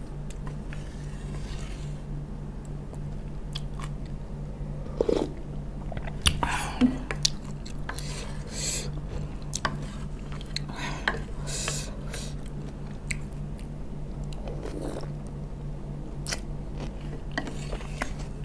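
Close-miked chewing and crunching of pickled raw vegetables, with wet slurps of the vinegary sauce and light clicks of the wooden spoon and fork against the bowl, over a steady low hum.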